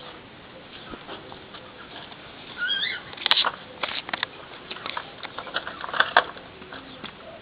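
A short, wavering, high-pitched call from a pet about two and a half seconds in. It is followed by a run of quick, sharp clicks and taps: pets' paws and claws pattering on a hard floor.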